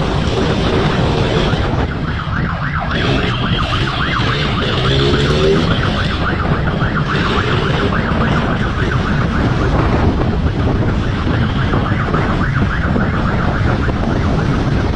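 Siren sounding in a fast, regular warble over loud wind and vehicle noise.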